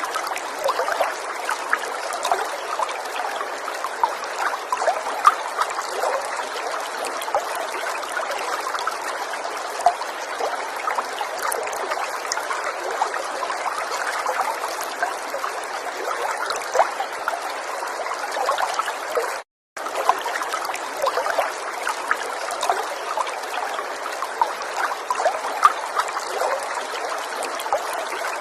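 River water running in a steady rush. About two-thirds of the way through, the sound cuts out abruptly for a split second, then resumes.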